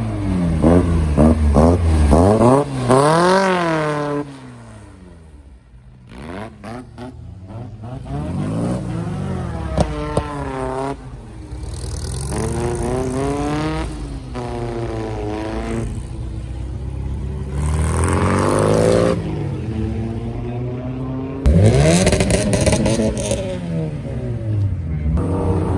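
Car engine revved hard over and over, its pitch climbing and dropping with each blip. It goes quieter for a few seconds near the start, then comes back, with a sudden loud surge of revving about three-quarters of the way through.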